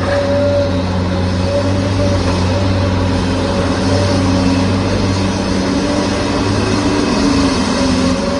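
Steady vehicle engine drone: a low hum with a few held tones above it, unchanging in level.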